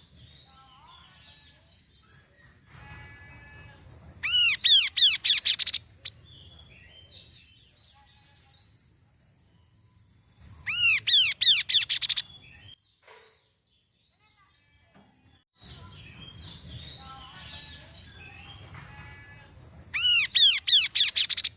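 Kaso-kaso bird singing: three loud runs of rapid, arching notes, each about two seconds long, with softer chirps and twitters between them. A steady high-pitched whine runs behind most of the song.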